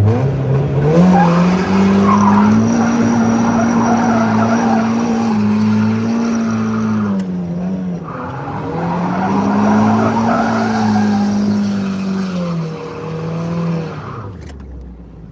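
Mazda NB Miata with an ISR exhaust pulling hard: the engine note climbs and holds high while the tyres squeal in a slide. It backs off about seven seconds in, then pulls and squeals again before dropping away near the end.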